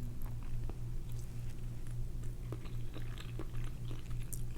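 Close-miked chewing as a person eats leftover Rice-A-Roni, with small scattered mouth clicks over a steady low hum.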